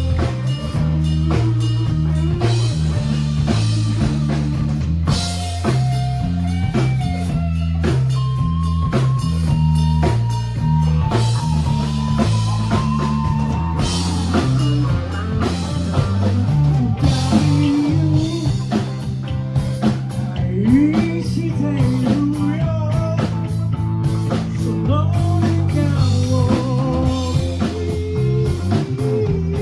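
A live rock band playing: guitar over bass and drums.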